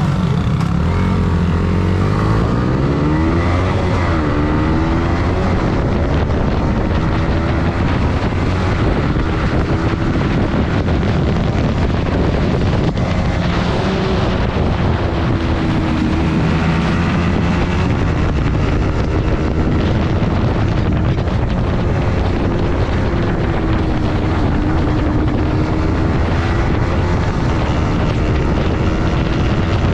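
Yamaha MT-15's 155 cc single-cylinder engine on the move, its pitch rising and falling several times as the rider accelerates and eases off through the corners, over a steady rush of wind noise.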